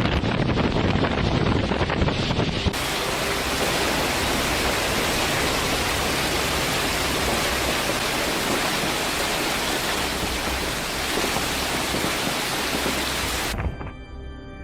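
Wind buffeting the microphone with heavy low rumble. About three seconds in, this cuts to a steady, even rushing hiss of storm noise. Music comes in near the end.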